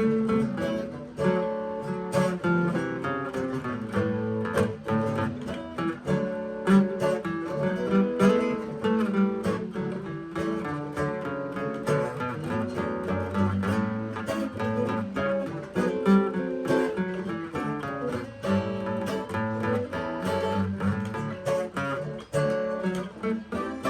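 Acoustic guitar played with a quick run of plucked notes and strummed chords.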